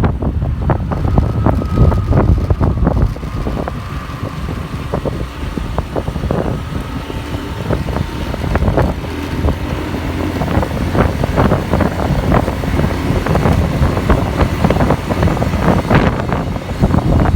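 Riding noise on the back of a moving motorbike: wind buffeting the microphone over a continuous rumble of the bike and surrounding traffic.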